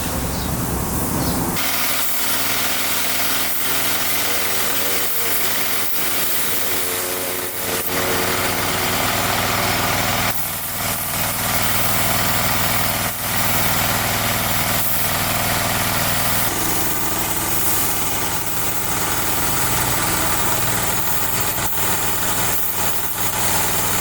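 A vehicle engine running steadily at idle, with a dense hiss over the top; the sound changes abruptly about one and a half seconds in.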